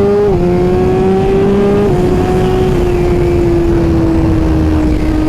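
Suzuki GSX-R1000R inline-four through a Brocks full exhaust, pulling hard through the gears. The engine note climbs and drops sharply at a quickshifted upshift about a third of a second in, and again near two seconds. It then holds and slowly falls away, with a rush of wind noise underneath.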